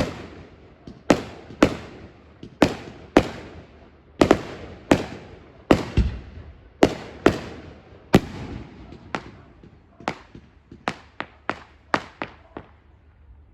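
Fireworks bursting overhead: a rapid, irregular series of sharp bangs, about twenty in all, each trailing off in an echo. The bangs grow fainter in the last few seconds.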